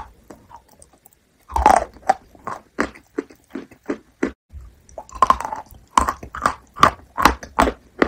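Close-miked chewing of a soft food: a steady run of short mouth clicks and smacks, about three a second, starting about a second and a half in.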